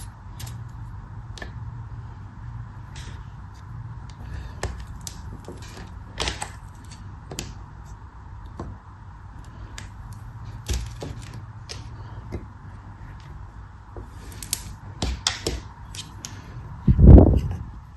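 Close-miked cutting of soap or kinetic sand: irregular crisp snaps and crackles, with one heavy low thud about 17 seconds in.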